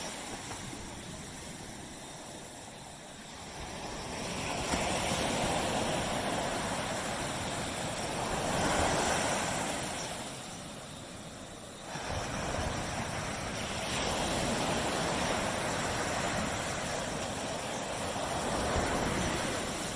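Tropical sea waves washing onto a beach, the surf swelling and ebbing in slow surges every few seconds.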